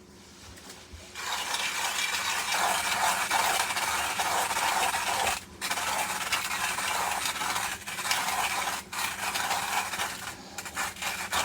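Hand-crank coffee grinder grinding beans: a steady grinding sound that starts about a second in, broken by a few short pauses in the cranking.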